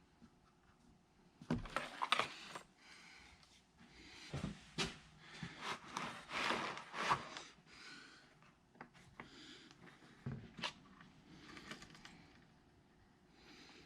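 Hands working on a plastic picture frame: scattered clicks and knocks with bouts of scraping and rustling, busiest in the first half.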